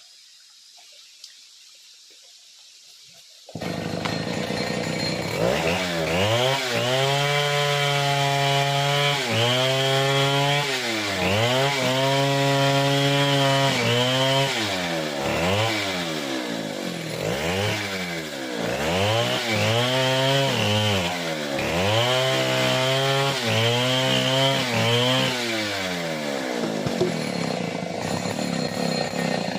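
Stihl 070 two-stroke chainsaw starting up loudly about three and a half seconds in and cutting into wood. The engine revs up, holds and drops back again and again, roughly every two seconds.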